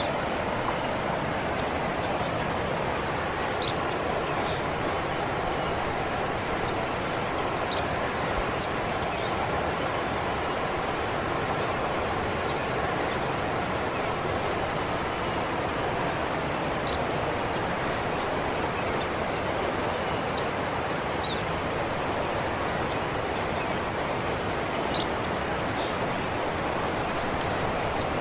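Forest stream water flowing with a steady rush, with many small birds chirping in short, quick high notes over it throughout.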